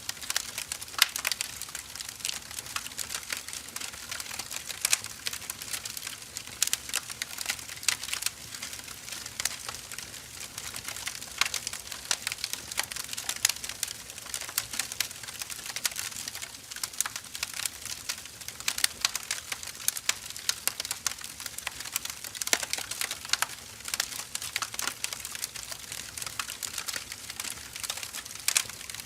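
Firewood burning in a fire, with dense, irregular crackles and pops over a steady soft hiss.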